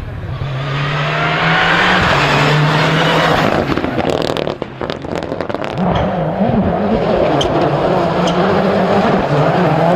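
Rally car engine running hard, its note building over the first second or so. About four to five seconds in the sound dips with a flurry of sharp cracks, then the engine picks up again, wavering in pitch before holding a strong, steady note.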